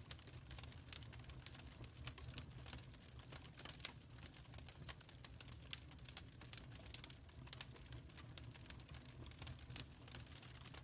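Wood fire in a firepit crackling: faint, irregular pops and snaps, some sharper than others, over a low steady rumble.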